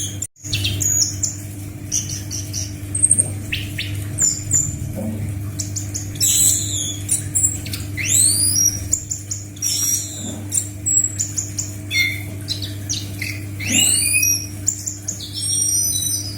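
Scaly thrush (anis macan) singing lively, varied phrases in quick succession, including sharp rising sweeping whistles. A steady low hum runs underneath, and the sound cuts out for a moment just after the start.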